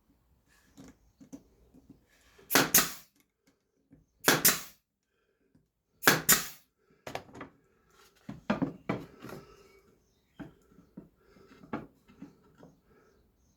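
Brad nailer firing three times, each shot a sharp double crack, driving brad nails into thin wood. Then a run of lighter knocks and clatter as the wooden pieces are handled and set down.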